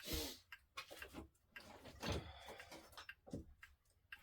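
Rummaging and clinking among small metal items while searching for a clock winding key, with a scrape about two seconds in. A mechanical clock ticks faintly underneath.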